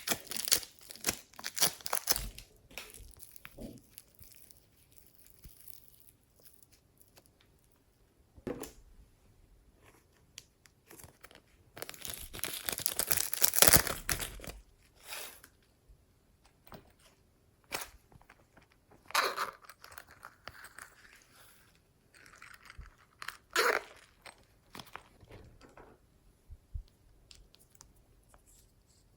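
Glossy slime being handled by hand, giving irregular bursts of crackling, tearing sounds with quiet stretches between. The longest burst comes about halfway through, and there are two sharp snaps later on.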